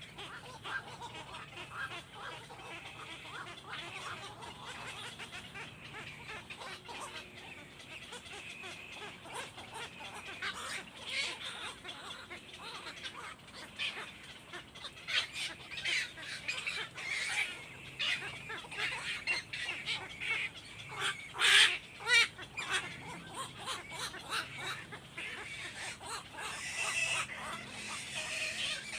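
Birds calling in many short, high chirps, thickening into a louder cluster of calls a little past the middle.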